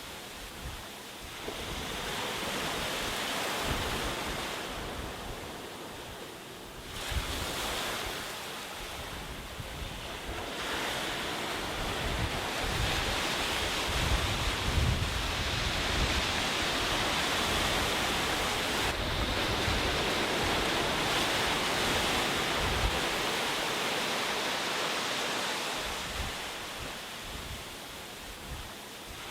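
Sea waves breaking and washing up a beach, swelling and ebbing in long surges, with wind gusting on the microphone.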